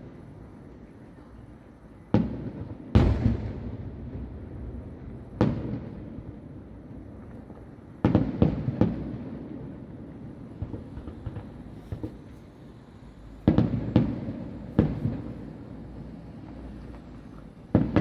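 Distant fireworks shells bursting in irregular bangs, some in quick clusters of two or three, each followed by a rolling low echo that dies away.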